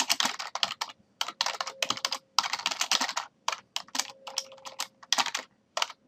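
Fast typing on a computer keyboard: rapid runs of key clicks in bursts of about a second, with short pauses between them.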